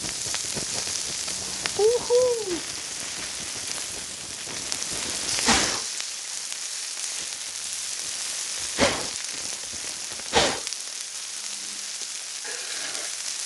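Pork slices sizzling steadily on fire-heated river pebbles, with three louder sudden crackles from spitting fat.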